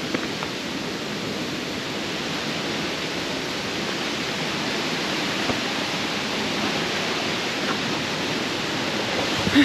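Waterfall rushing as a steady, even roar of falling water, with a brief louder bump near the end.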